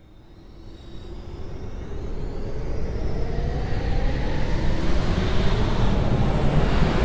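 A vehicle approaching, growing steadily louder, with a faint whine that rises in pitch.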